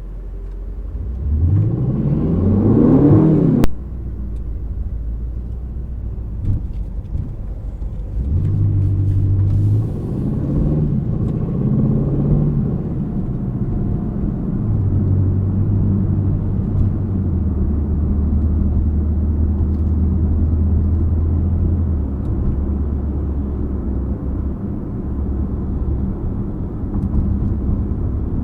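The 2025 Aston Martin Vantage's 4.0-litre twin-turbo V8 revs up hard, rising in pitch for a couple of seconds. It cuts off suddenly with a click, then runs at steadier, lower revs, its note stepping between fixed pitches several times while cruising.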